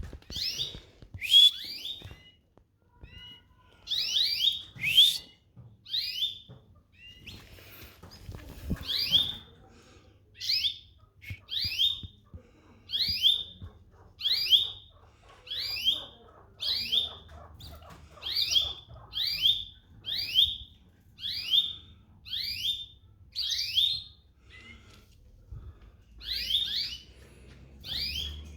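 Domestic canary repeating a short, high chirping call about once every second and a quarter, with a few brief pauses.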